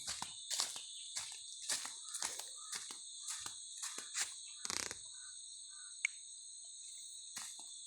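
Steady high-pitched chorus of insects, with footsteps about two a second that stop about five seconds in and start again near the end.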